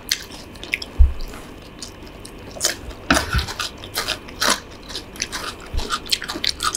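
Eating sounds from a plate of stir-fried instant noodles with chicken and fried egg: chewing and biting, with irregular short smacks and clicks.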